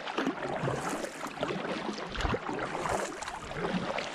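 Kayak paddle splashing and dripping in river water, with scattered small clicks and knocks.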